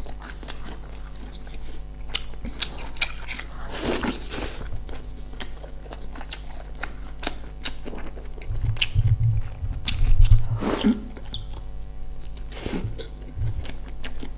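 A person eating close to the microphone: repeated crunchy bites and chewing in short irregular clicks. A loud low rumble about nine to ten seconds in.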